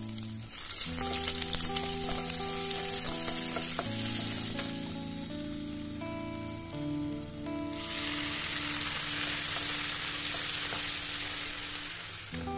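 Onions sizzling as they fry in hot oil, stirred in the pan. The sizzle starts about half a second in, eases for a moment past the middle, then picks up again.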